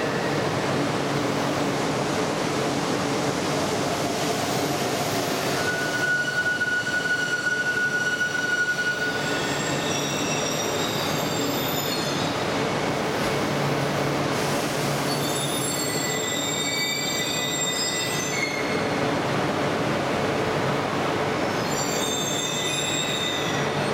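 Steady mechanical noise from an E1 series Max Shinkansen standing at a station platform, with thin high squealing tones that come and go from about six seconds in.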